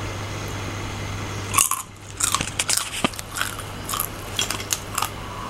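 Crunching and chewing on a deep-fried scorpion, its dry, hard shell cracking between the teeth in a quick, irregular run of crisp crackles that starts about a second and a half in.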